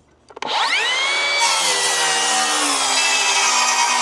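Electric circular saw spinning up about half a second in, its whine rising, then running steadily loud as it cuts through a wooden board, the pitch sagging slightly under the load of the cut.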